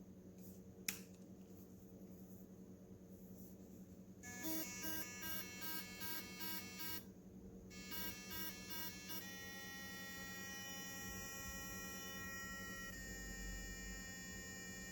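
Proalpha BH130 sonic electric toothbrush running through its brushing modes: a click about a second in, then a buzzing tone that pulses on and off about two to three times a second, and from about nine seconds a steady buzz that shifts pitch near the end. The mode patterns sound almost like playing music.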